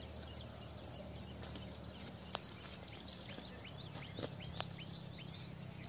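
A bird calling a run of short upward-sweeping notes, about three a second, from about two and a half seconds in, over a low steady hum. A few sharp snaps of footsteps in dry scrub stand out, twice near the end.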